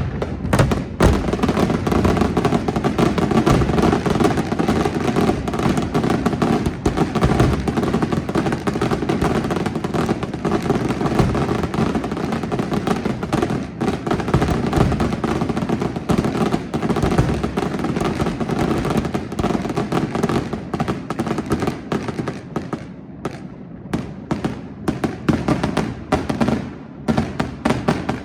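A dense, continuous barrage of firework bursts and crackles, easing off for a few seconds near the end before building up again.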